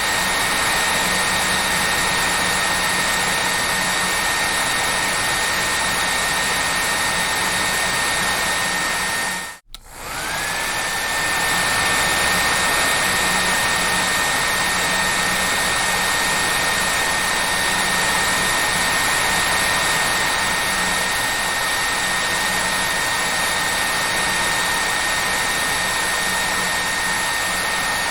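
Hair dryer running steadily: an even rushing blow with a high motor whine. About ten seconds in the sound drops out for a moment, then comes back with the whine rising to its steady pitch.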